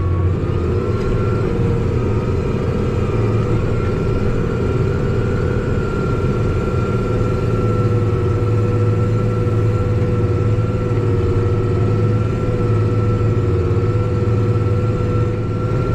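Tractor engine running steadily under load while pulling a plow, a constant drone with a held higher tone above it; the pitch rises slightly about a second in.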